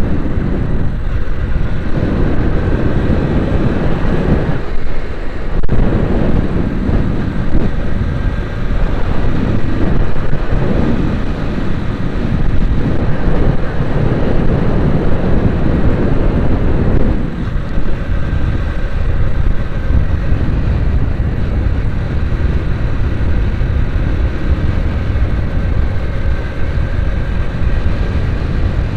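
A vehicle driving: a steady low rumble of engine and road noise, easing briefly about five seconds in and again near the middle.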